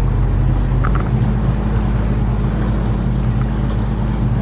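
Canal tour boat's motor running steadily, its low note shifting slightly about a second in.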